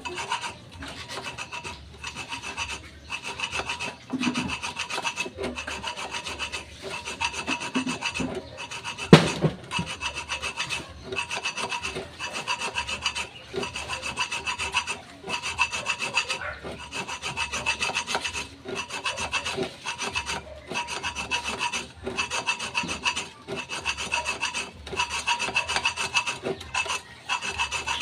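Hand-filing or scraping of a brake drum: steady, repeated rasping strokes of metal on metal, about one a second, with a sharper scratch about a third of the way through.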